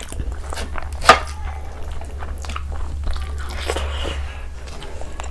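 Close-miked chewing of a mouthful of vegetable pulao: wet mouth clicks and smacks, with one sharp loud click about a second in, over a low steady hum.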